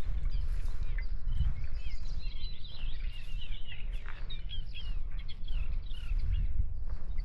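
Several small birds singing and chirping in quick, varied whistles, busiest in the middle, over a steady low rumble of wind on the microphone.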